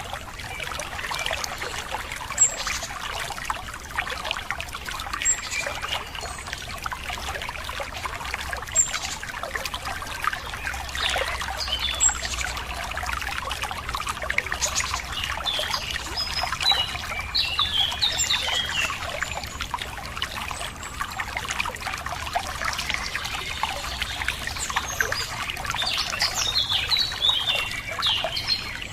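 Running water trickling and splashing steadily, with birds chirping and trilling over it now and then, in a busier burst near the end.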